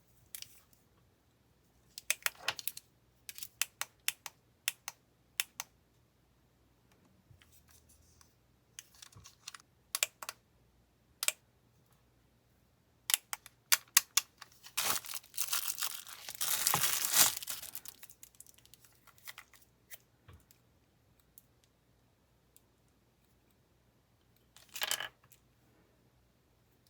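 Packaging being handled and opened: scattered small clicks and taps, then about three seconds of tearing and crinkling near the middle, and a short crinkle near the end.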